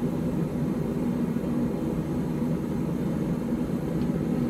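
A forge running: a steady low roar with no breaks or strikes.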